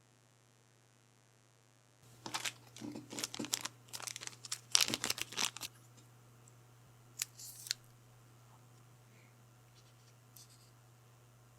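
Packaging crinkling and tearing, starting about two seconds in and lasting about three and a half seconds, followed by two sharp clicks.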